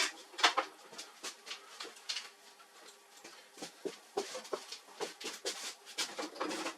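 Irregular light clicks and knocks, several a second, with no steady rhythm.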